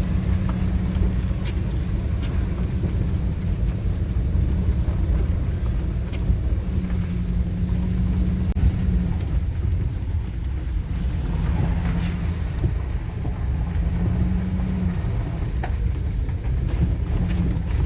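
Cabin noise of a Ford Econoline van driving slowly: a steady low engine and road rumble, with a low hum that fades in and out.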